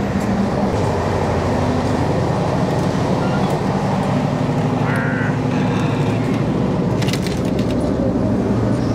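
Passenger train running fast, heard from inside a sleeper coach: a steady, loud rumble of the wheels on the track and the coach body, with a few sharp clicks about seven seconds in.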